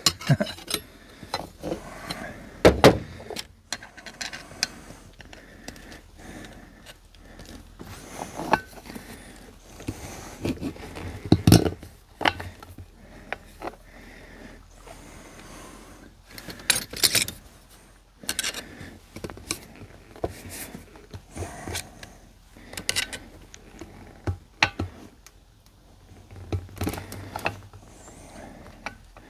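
Scattered metal clinks, knocks and scrapes of hand tools working on a tractor tire and its rim, as the tire is pried and handled to change the inner tube.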